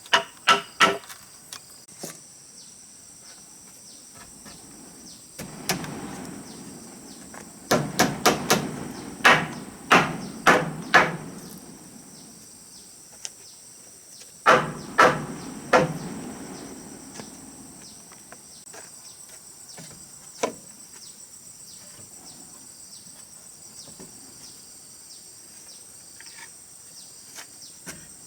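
Hammering on wood: sharp blows in groups, a few near the start, a quick run of about eight a third of the way in, three or four more around the middle and a single knock later. Insects chirp steadily in the background.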